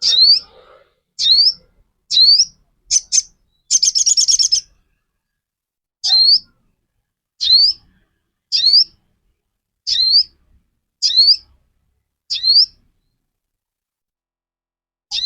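Little spiderhunter (sogok ontong) calling: a sharp, high, upswept note repeated roughly once a second, with a fast rattling chatter about four seconds in. The calls pause for a couple of seconds near the end.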